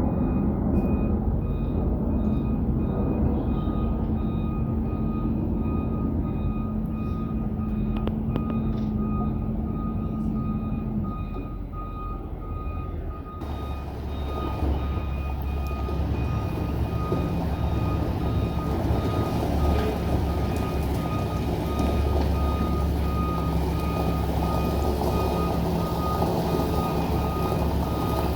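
A vehicle's reversing alarm beeping steadily over a running engine, as a vehicle backs up. The background changes abruptly about halfway through.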